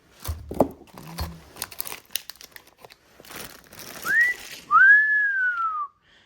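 Clicks and crinkly rustling of parts and packaging being handled, then a person whistles: a short rising note, then a longer note that arches and slides down.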